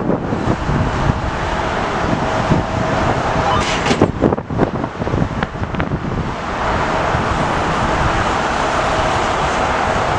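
Wind buffeting the microphone over the engine noise of a landing jet airliner: a steady whine, then a broad rushing sound that swells about six seconds in.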